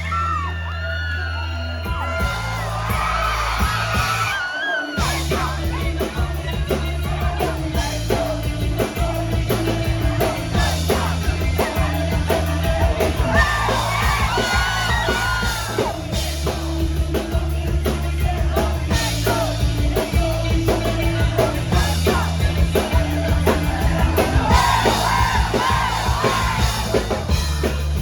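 A live rock band plays with sung and shouted vocals over a steady bass line. About five seconds in the music briefly stops, then the full band comes back in with drums.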